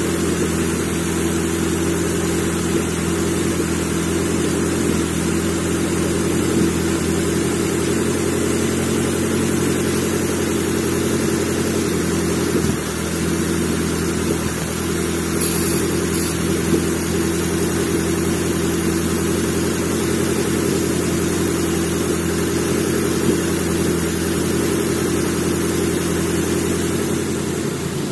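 Nissan SR20 2.0-litre inline-four engine running at a steady speed on an engine test stand, fired up on its original wiring to check its condition.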